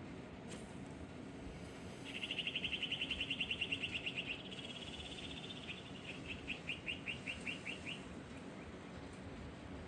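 A songbird singing: a fast, high trill of rapidly repeated notes about two seconds in, trailing off fainter, followed by a slower run of separate chirps that stops about eight seconds in, over a steady low background hum.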